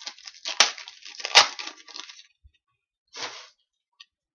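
Crinkling and crackling of a foil trading-card pack wrapper being handled, with two sharp snaps about half a second and a second and a half in, then a short rustle about three seconds in.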